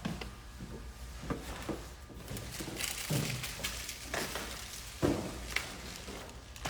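Irregular knocks and clatter of objects being handled, about seven in all, over a steady low hum.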